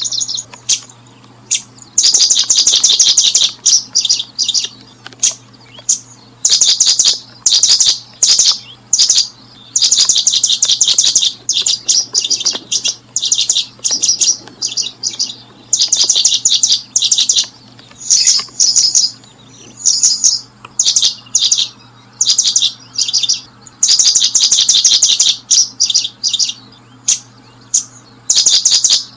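Small bird chirping high and fast in repeated trains of rapid notes, each train lasting about half a second to a second and a half, with short pauses between, over a faint steady low hum.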